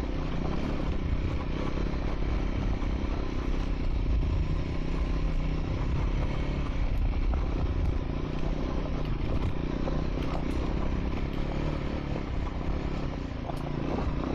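Triumph Scrambler 400 X's single-cylinder engine running steadily while riding a gravel track.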